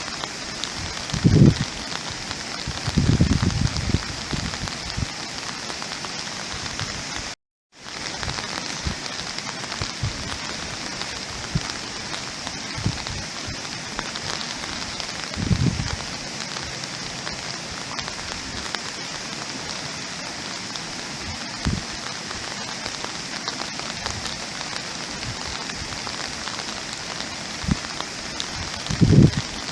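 Steady rain falling, with a few short low thuds now and then. The sound cuts out completely for a moment about seven and a half seconds in.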